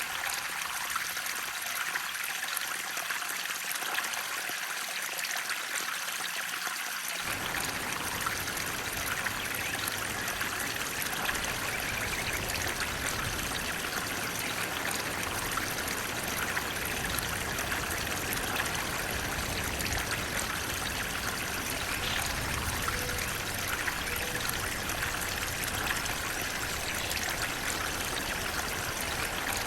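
Water flowing steadily: a continuous, even rush of stream water, brightest in the upper-middle range. About seven seconds in, a low rumble joins it and carries on.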